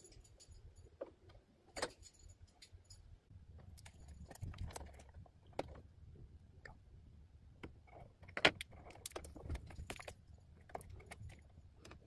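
Scattered small clicks and taps of hands handling tools and small model parts, the sharpest click about eight and a half seconds in, over a faint low hum.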